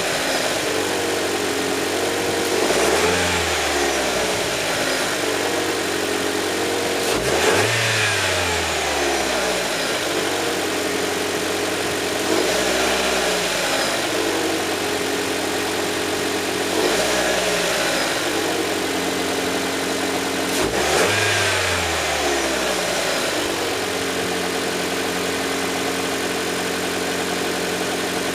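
The 1.5 ClearTec turbocharged four-cylinder petrol engine of a Mitsubishi Eclipse Cross, still cold after a start at −8°C, idling between five short throttle blips. Each blip rises and falls in pitch, coming about every four to five seconds, and the engine settles to a steady idle near the end.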